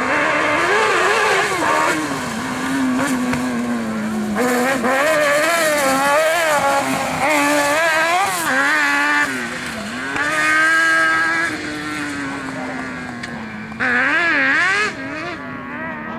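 Racing engine of a rally competitor revving hard, its pitch rising and falling constantly as the throttle is worked, with louder surges about four seconds in and again near the end.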